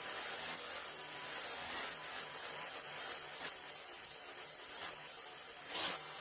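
A 60-grit flap wheel on a 6-inch variable-speed grinder grinding stainless steel flat bar: a steady, hissy abrasive grind that swells briefly near the end. This is the rough-grinding stage that takes off the surface roughness before the grain is straightened.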